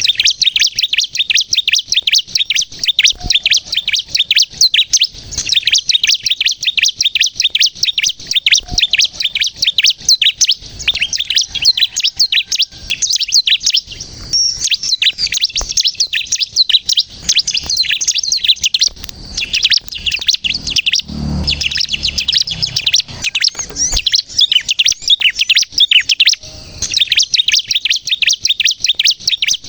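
Bar-winged prinia (ciblek kristal) singing non-stop: a fast, dense run of high, chattering notes, many to the second, hardly pausing.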